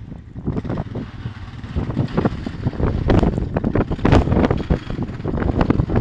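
Snowstorm wind buffeting the microphone: a loud, uneven rumble that surges in gusts, with sharp bursts every fraction of a second.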